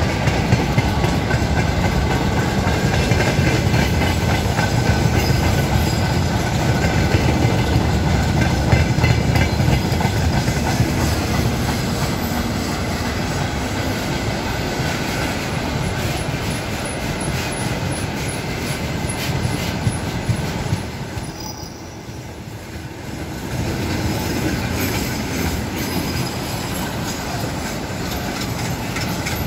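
Loaded freight wagons, hopper cars giving way to tank cars, roll past close by: a steady heavy rumble of steel wheels on the rails with repeated clicking and some high ringing tones. The sound drops briefly about two-thirds of the way through, then comes back.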